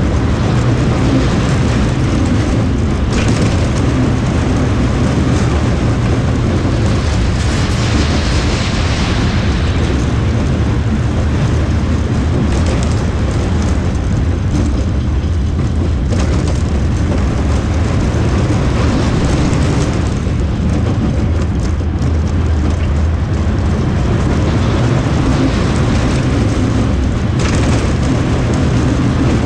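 Ramses Train roller coaster running along its track: a steady, loud rumble with hiss that grows brighter about a third of the way in and again near the end.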